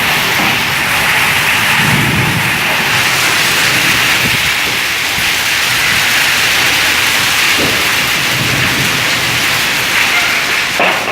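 Heavy rain pouring down in a storm: a loud, steady hiss, with a low rumble about two seconds in.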